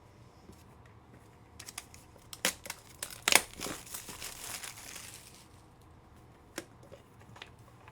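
Foil trading-card pack wrapper being torn open and crinkled: scattered sharp crackles, the loudest about three and a half seconds in, then a couple of seconds of rustling.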